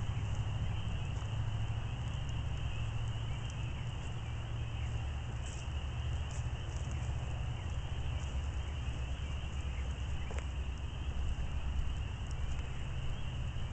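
Backyard campfire crackling, with scattered small pops and one sharper snap near the end, over a steady low rumble. A steady high-pitched drone runs under it.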